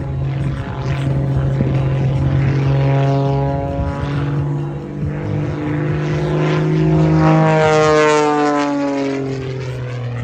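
Extra 330 aerobatic plane's piston engine and propeller running hard through display manoeuvres, the pitch rising and falling. It is loudest as the plane passes closest, about three-quarters of the way in, then the pitch drops as it moves away.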